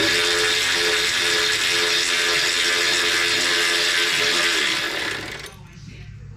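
Handheld power tool's motor running at a steady speed for about five seconds, then trailing off, as it spins a bolt out of the wood chipper.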